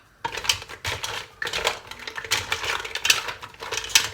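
Mussels in their shells being stirred in a pressure-cooker pot, the shells clicking and clattering against each other and the metal in quick, irregular bursts.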